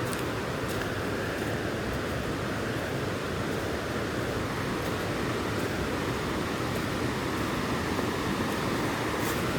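Steady rush of flowing river water, growing slightly louder toward the end.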